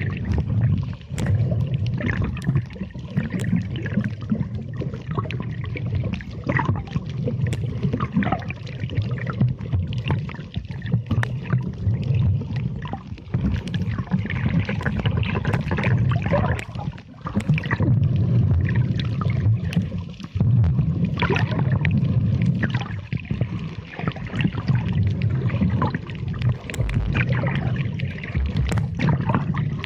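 Muffled water sloshing and gurgling picked up by a camera filming underwater, with scattered small clicks.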